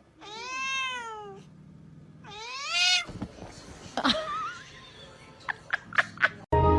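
A domestic cat meowing twice: two long, drawn-out meows, the first rising and falling, the second rising and shorter, followed by a few short knocks or clicks near the end.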